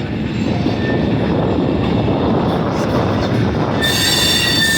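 Freight cars of a long manifest train rolling past with a steady rumble of wheels on rail. About four seconds in, a high-pitched steel wheel squeal sounds for about a second.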